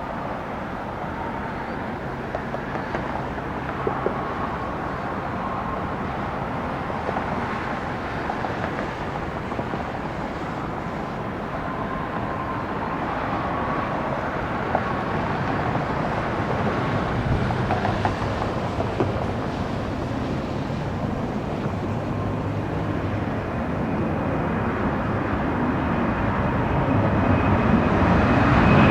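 Jet airliner engines running, a steady rush that grows louder through the second half, with a high whine coming in near the end as a departing jet draws closer.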